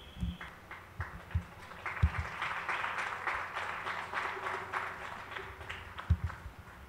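Audience clapping that swells about two seconds in and tails off after about five seconds, with a few separate low thuds.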